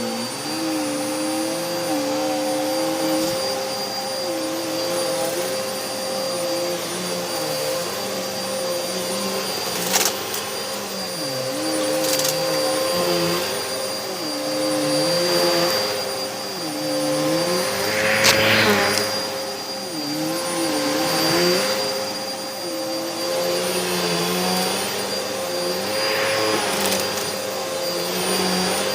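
Hoover upright vacuum cleaner running steadily, its motor pitch wavering up and down with each push and pull. A few sharp clicks come partway through. The owner says the vacuum was clogged and left uncleared.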